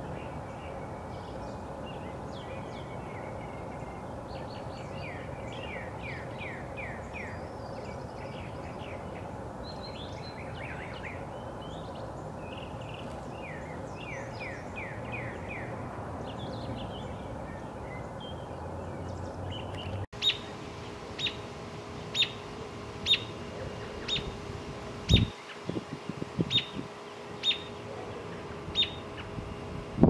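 Songbird calls over a steady outdoor background hiss: runs of quick downslurred chirps for the first two-thirds. After a cut, a single sharp call repeats about once a second, with a few low thumps near the end.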